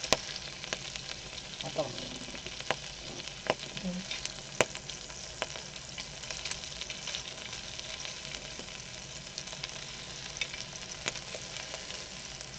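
Pork belly frying in its own fat with garlic and onion, a steady sizzle broken by scattered sharp pops and clicks.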